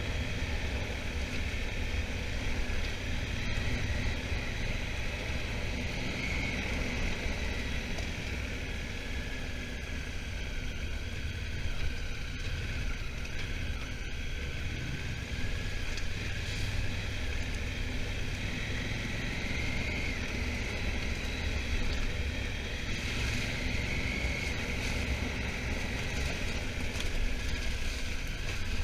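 Honda Africa Twin motorcycle being ridden at a steady pace: engine running over a constant low rumble of wind and road noise. The engine note rises slightly a few times.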